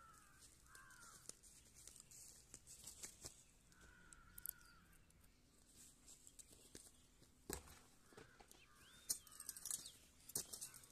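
Quiet outdoor air with a bird calling twice in the first half and once more faintly near the end. In the last few seconds come a few dull knocks as a hoe bites into loose soil.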